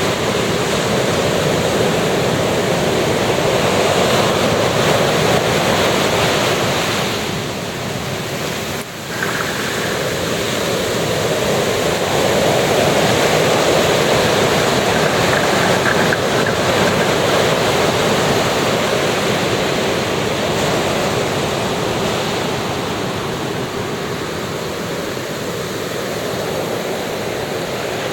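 Ocean surf washing onto a beach, a continuous rushing that swells and eases, with a brief dip in level about a third of the way in.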